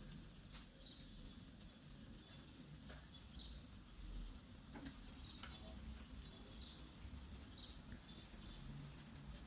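Faint, high bird chirps, short single notes sliding downward, repeated every one to two seconds, with a couple of soft clicks between them.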